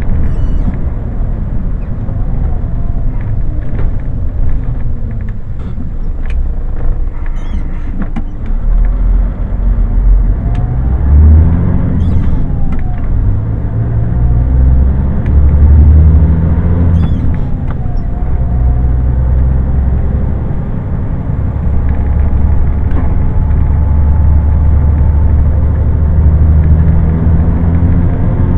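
Scania lorry's diesel engine running under way with road rumble, its pitch rising and falling a few times as the truck changes speed and gears.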